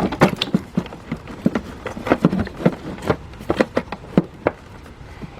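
Irregular clatter of knocks and clicks as a plastic battery case cover is worked and pushed into place in a car's engine bay, hard plastic bumping against surrounding parts.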